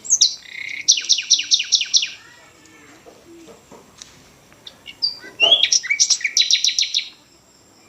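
A songbird singing two phrases, each a quick run of about seven sharp, high repeated notes. The first comes right at the start and the second about five seconds in.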